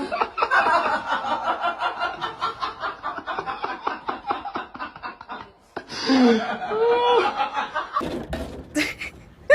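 Laughter: a long fast run of short breathy pulses. Around six seconds in come a few gliding voice-like calls, and sharp knocks follow near the end.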